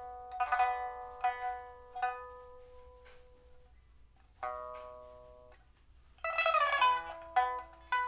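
Solo pipa from the 1990s Shanghai factory, rosewood body, with a new soundboard and frets, a steel first string and copper-wound lower strings. Single plucked notes ring and fade, one held note dying away slowly, then after a brief pause a rapid tremolo of fast repeated plucks with a strummed chord begins near the end.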